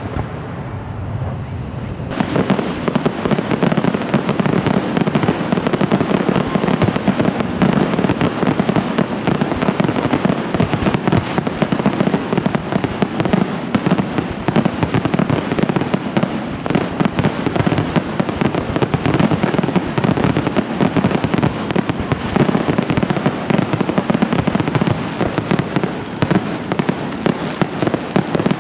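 Fireworks display going off in a dense, continuous barrage: many bangs and crackles merge into one another. It grows thicker and louder about two seconds in.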